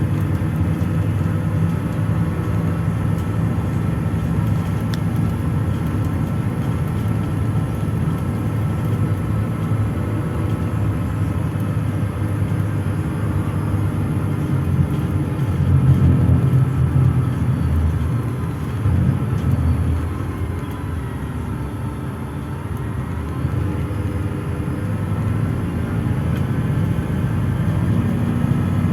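Inside a PAZ-422320-14 Citymax 9 city bus under way: steady engine drone and road rumble, with a faint whine that slowly rises and falls. It gets louder a little past halfway, then eases off for a few seconds before picking up again.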